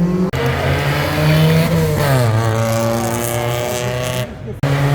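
Rally car engine revving hard through a slalom, its pitch climbing, dropping sharply about two seconds in as the throttle comes off, then climbing again, with some tyre squeal. The sound cuts out briefly twice, once just after the start and once about four seconds in.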